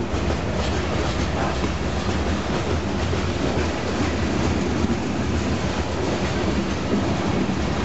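Union Pacific freight train of covered hopper cars rolling past: steel wheels on the rails make a steady rolling noise.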